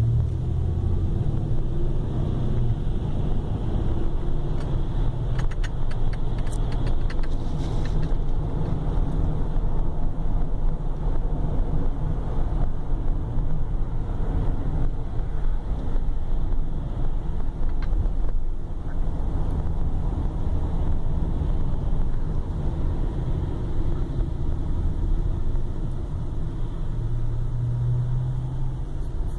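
Car driving at steady speed, heard from inside the cabin: a continuous low rumble of engine and road noise. A few faint clicks come about six to eight seconds in.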